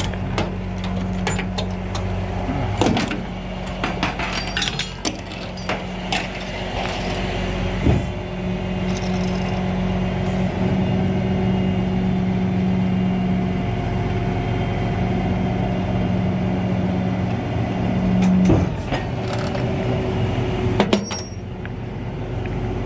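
Flatbed tow truck's engine running steadily with a constant low hum, with scattered clicks and knocks from rattling parts.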